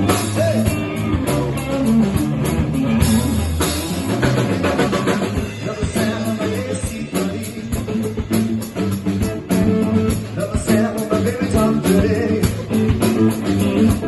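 Live rock band playing an instrumental passage, with guitar and bass notes over a steady drum-kit beat.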